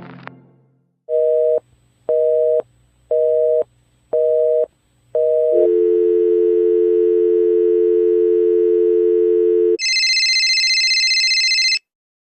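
Telephone tones: a busy signal of five two-tone beeps, about one a second, then a steady dial tone for about four seconds, then a higher-pitched electronic tone for about two seconds that cuts off suddenly. The tail of a music clip fades out just before the beeps.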